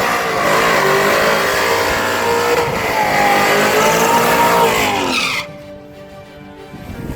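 Supercharged C7 Corvette Z06 race car's tyres squealing hard over its supercharged V8, the squeal wavering up and down in pitch. The car sound cuts off abruptly about five seconds in, leaving background music.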